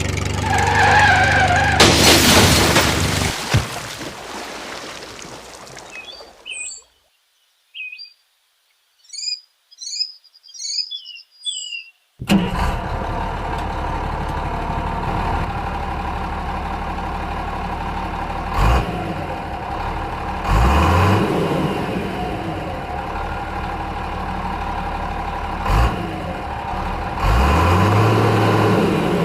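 Engine sound that runs steadily from about twelve seconds in, rising in pitch twice as if revved, with a couple of short thumps. Earlier comes a loud rushing noise for several seconds, then bird chirps over silence.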